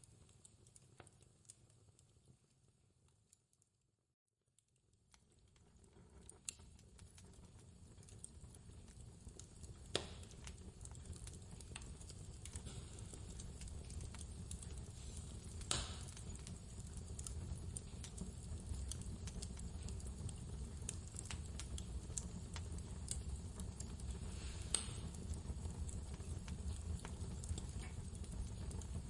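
Wood fire crackling with many small ticks and three sharp pops, over a low steady rumble of blizzard wind. The sound fades out to silence about four seconds in, then fades back in and builds up.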